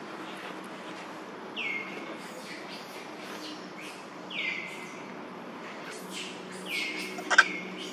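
Birds calling: a call that slides down in pitch and then holds, repeated about every two and a half seconds, with short faint chirps between. One sharp click comes near the end.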